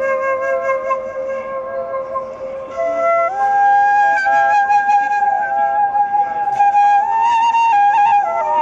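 Bamboo flute playing a slow melody of long held notes, stepping up in pitch about three seconds in, with quick ornamented notes near the end.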